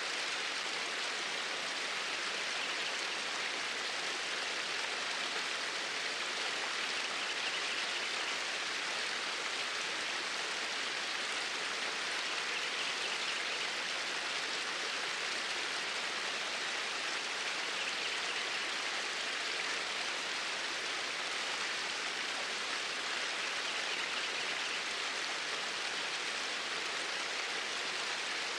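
Flowing water of a stream, a steady, even rush with no change.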